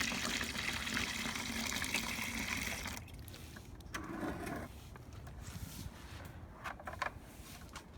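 Water running from a tap into a bucket, with a faint filling tone that rises slightly, until the flow is shut off about three seconds in. After that come a few light knocks and brief handling sounds.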